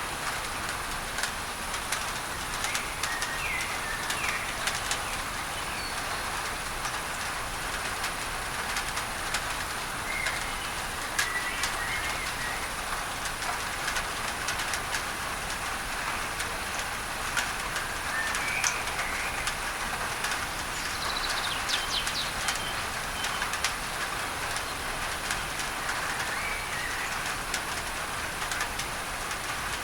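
Steady rain on a tin roof, a dense hiss with many small drop ticks, blended with a constant masking noise. Short bird chirps come and go over it several times.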